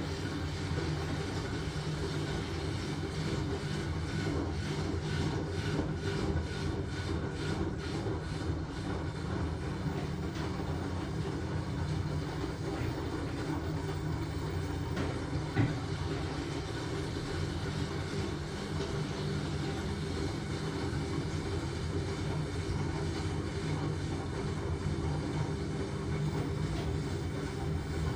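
LG washing machine running with a steady low hum and churning, with one short knock about halfway through.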